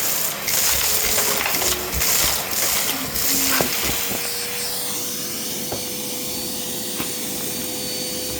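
Vacuum cleaner running, its suction noise surging louder for the first three seconds or so, then settling into a steadier hum with a thin, steady whine.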